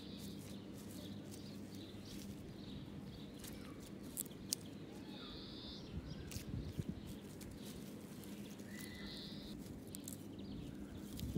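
Quiet outdoor background with a few short bird chirps, plus light rustling and taps around the middle.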